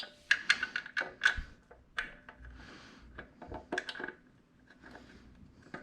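Irregular light clicks and knocks of metal parts and fasteners being handled and fitted while a plotter stand is assembled.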